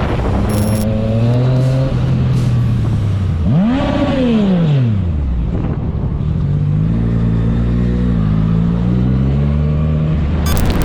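Motorcycle engine running under the rider, revving up sharply and dropping back down once about four seconds in, then pulling steadily with small shifts in pitch.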